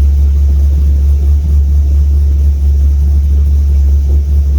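LS2 V8 engine idling steadily with the air conditioning on and the electric radiator cooling fan running, a deep even rumble.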